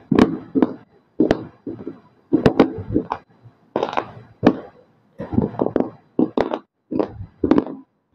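Roasted multani mitti (fuller's earth clay) crunched and chewed close to the microphone: clusters of crisp cracks about once a second, with short silent pauses between bites.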